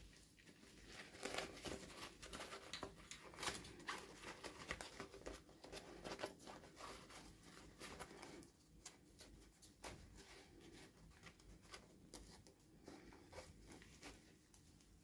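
Quiet handling of toy packaging: soft rustling, crinkling and small clicks. The sounds are densest in the first half and thin out after about eight seconds.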